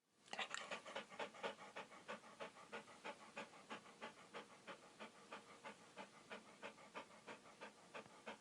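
An animal panting fast and rhythmically, about four to five quick breaths a second, loudest in the first second or so and then steady.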